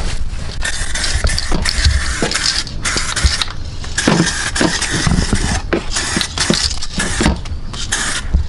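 Aerosol spray paint can hissing in a series of short passes, each a second or so long with brief breaks between, as a coat is laid down.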